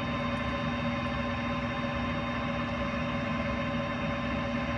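Metal lathe running with a steady hum made of several held tones, and no cutting or knocks.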